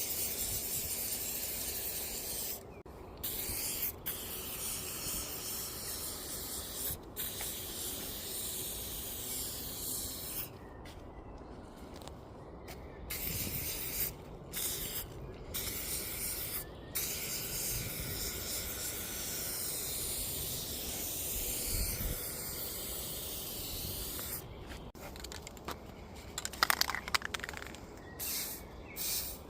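Aerosol spray-paint can hissing in long bursts with short pauses between them, with a brief run of sharp clicks near the end.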